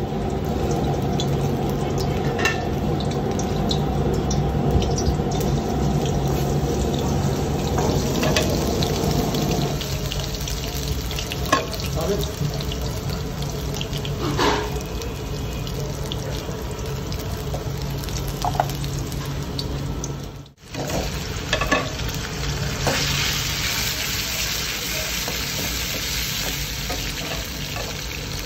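Food frying in oil in a steel wok: chopped garlic sizzles, then beef pieces sizzle louder and brighter in the last few seconds, with a metal spatula knocking and scraping against the wok now and then. A steady low hum runs under the first ten seconds or so.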